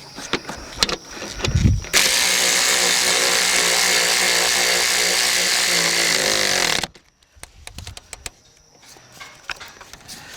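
A handheld power tool runs steadily for about five seconds, starting and stopping abruptly. Small clicks and knocks of handling come before and after it.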